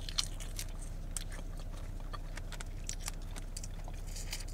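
Close-miked chewing: small, irregular wet mouth clicks and smacks as food is eaten and fingers are licked, over a steady low hum.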